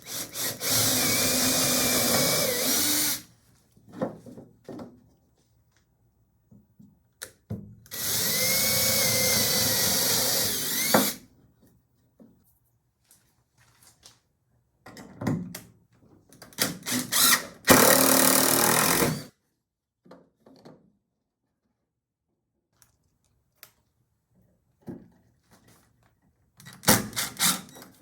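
Power drill running in bursts of about three seconds with pauses between them, with small knocks and handling clatter in the gaps.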